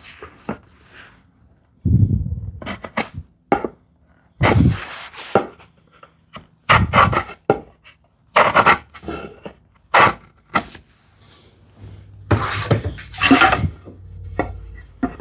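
Irregular knocks and scrapes of wooden workpieces and hand tools being handled and set against each other on a workbench during tenon layout, with a dull thump about two seconds in and longer scraping strokes near the middle and end.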